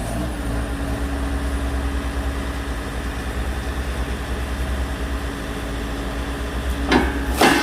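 Excavator's diesel engine running steadily with a steady whine over its drone, then two loud short bursts near the end.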